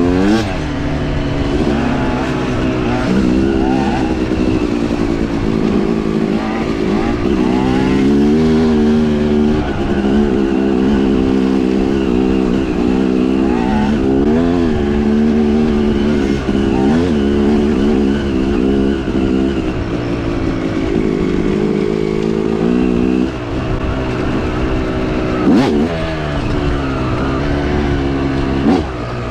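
Dirt bike engine being ridden off-road, its pitch climbing and dropping again and again as the throttle opens and closes through the gears. There is a sharp knock near the end.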